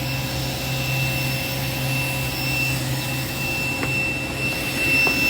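Jet engine running steadily, a constant high whine over a low hum, with a couple of faint clicks near the end.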